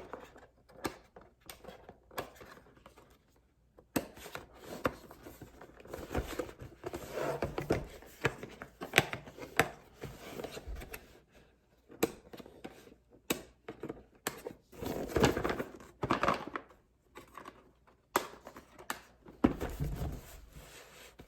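Close-miked handling of a cardboard box and its packaging: scattered sharp taps and clicks between stretches of rustling and scraping.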